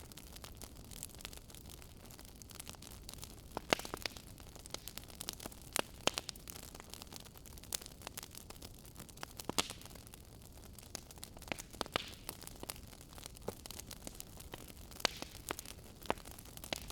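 Fireplace fire crackling: irregular sharp pops and snaps over a steady soft hiss, with a handful of louder pops a few seconds apart.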